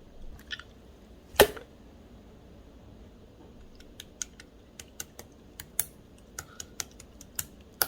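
Clear slime being pressed and poked, giving crisp clicking pops: one loud snap about a second and a half in, then a quick irregular run of sharp clicks, two or three a second, from about halfway.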